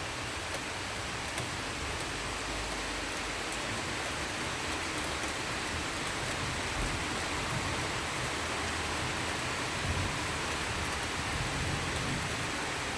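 Heavy rain falling in a thunderstorm: a steady hiss with faint scattered drop ticks.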